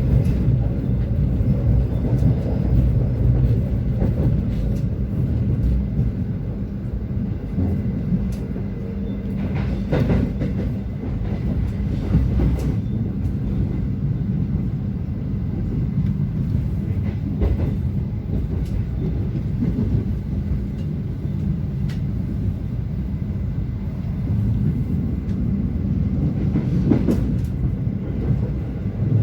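Passenger train running along the track: a steady low rumble with a faint hum underneath, and a few sharp clicks now and then.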